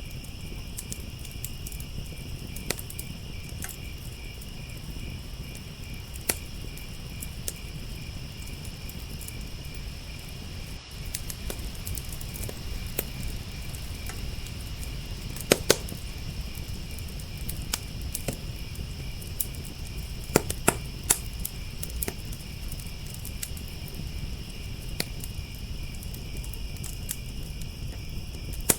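Crickets chirping in a steady, pulsing chorus over a crackling fire, with scattered small crackles and a few louder pops from the burning wood.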